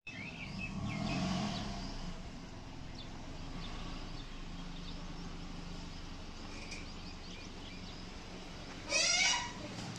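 Toyota Corolla engine idling with a steady low hum. About nine seconds in, a goat bleats once, briefly and louder than the engine.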